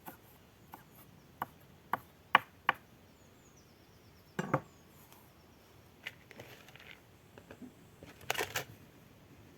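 A series of short, sharp wooden knocks, five in quick succession, then a heavier thump, with a brief rustle near the end.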